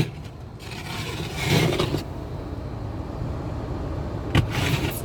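Car driving on a snowy road, heard from inside the cabin: a steady low rumble, with a brief louder swell about a second and a half in and a couple of short knocks near the end.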